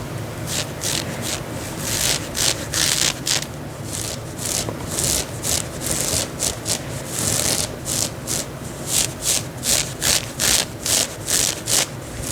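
Fingernails scratching the fabric of a long, heavy dress in repeated rough strokes. The strokes are uneven at first, then settle from about nine seconds in into a quicker, regular rhythm of about three a second.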